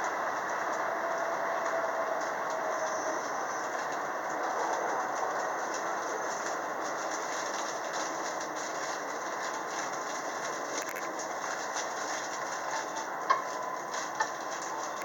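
Steady running noise of a JR West 225 series electric multiple unit heard from inside its front car: wheels on rail and car body noise. Near the end, two short knocks and a faint steady tone come in.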